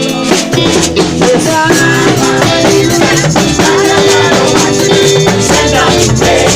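Reggae band playing live with a steady beat: drums and bass under sustained chords.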